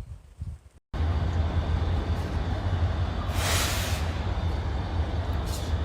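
A vehicle's engine running with a steady low rumble that starts abruptly about a second in, with a brief hissing rush rising over it near the middle.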